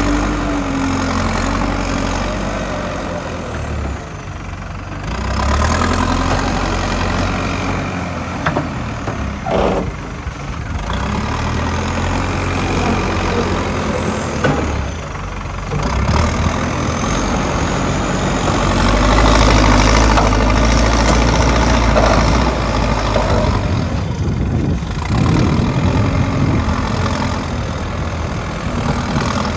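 JCB excavator's diesel engine working, its note rising and falling in repeated swells every several seconds as the hydraulics are loaded. There is a sharp knock about ten seconds in.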